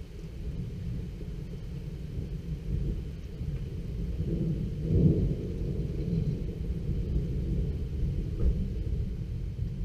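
Rolling thunder: a long, low rumble that swells to its loudest about halfway through, then eases off.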